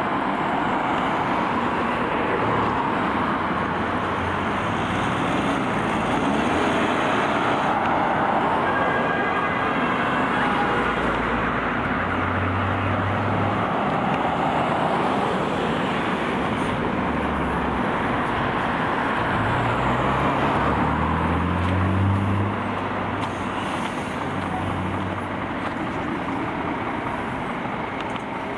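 Fire-rescue vehicles on an emergency run: engines running with heavy road noise, under a wailing siren. About twenty seconds in, an engine revs up with a rising pitch.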